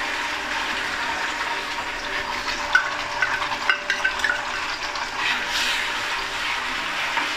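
Onion paste sizzling in hot oil in a steel kadai: a steady frying hiss, with a few sharp pops about halfway through. A metal ladle starts stirring it near the end.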